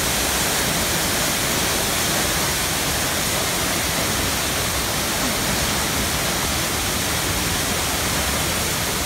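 A tall waterfall's falling water: a steady, even rush at a constant level.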